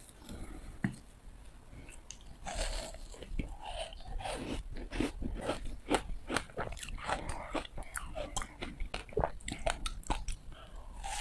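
Hard ice being bitten and crunched between the teeth: one click about a second in, then from about two and a half seconds a quick run of sharp, crackling crunches, several a second.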